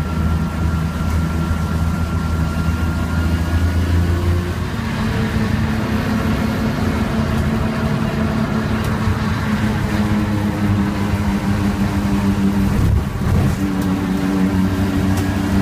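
Straight-six engine of a BMW E36 328i race car, heard from inside the cabin, running at racing speed on a wet track over a steady wash of tyre and road noise. The engine note holds low through a corner, then climbs as the car accelerates down a straight from about four seconds in. It drops briefly about thirteen seconds in as the car slows for the next corner, then picks up again.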